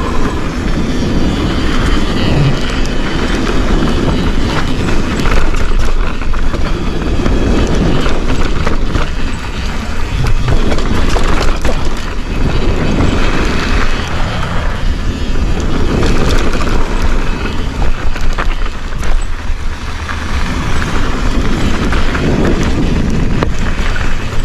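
Mountain bike riding fast down a dirt trail: wind rushing over the camera microphone over a steady low rumble, with frequent short clicks and rattles from the bike and tyres over rough ground.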